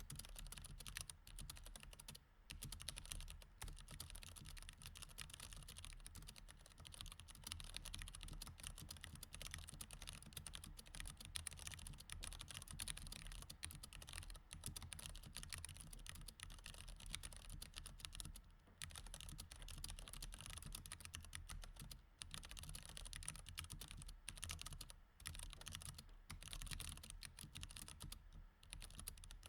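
Steady, fast typing on a mechanical keyboard with Cherry MX Red switches: a quiet, continuous patter of key clicks with a few brief pauses.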